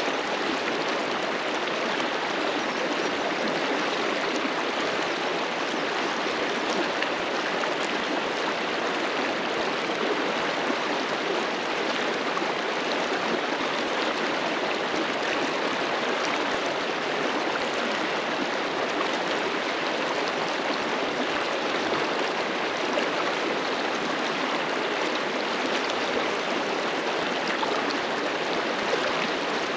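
River water rushing and splashing over rocks, a steady unbroken wash of sound.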